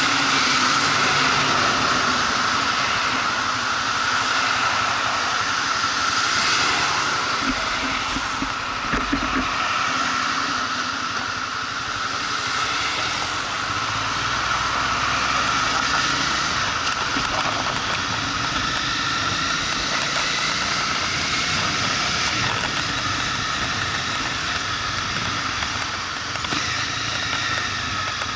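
Motorcycle riding along, its engine and road noise heard as a steady mix with no breaks.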